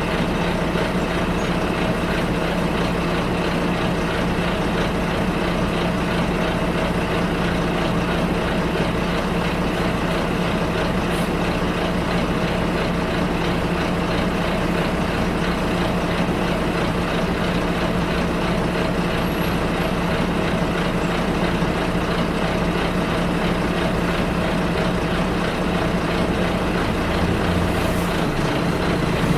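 Inside a bus: the engine runs with a steady drone under continuous road and cabin noise, and the engine note drops near the end.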